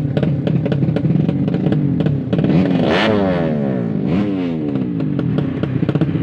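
Drag-racing motorcycle engines running loud and crackly. About two and a half seconds in, one revs up hard and its pitch sweeps up then drops away, and a second rise and fall follows about a second later.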